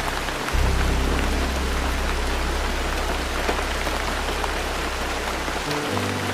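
Steady rain falling, an even hiss of drops, with soft instrumental ballad music underneath. Its low held notes change about half a second in and again near the end.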